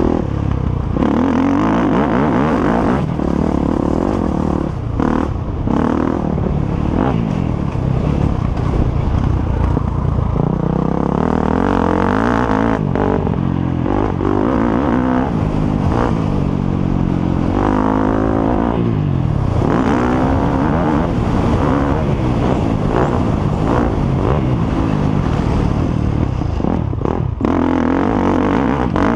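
Motocross motorcycle engines revving hard, their pitch rising and falling over and over as the bikes accelerate and shift. Several bikes overlap at times.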